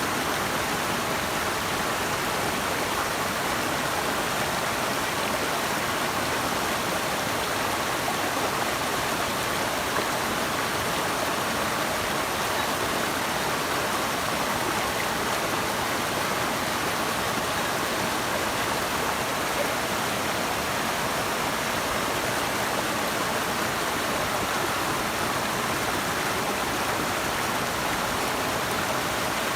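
Steady, unbroken rush of running water, strongest in the middle of the range.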